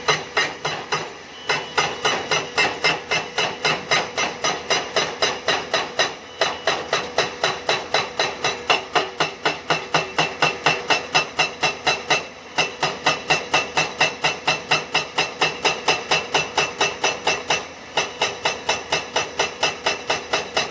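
Hydraulic breaker on a Hyundai excavator pounding limestone in a fast, even train of about four blows a second, stopping briefly three times, over a steady engine hum.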